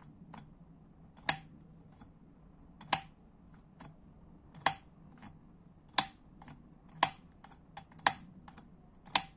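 A series of sharp, separate clicks, about seven loud ones roughly a second apart with fainter ticks between, from small engine parts being handled on the bench, most likely the exhaust power-valve governor linkage of a Honda CR250R two-stroke being moved while its alignment marks are checked.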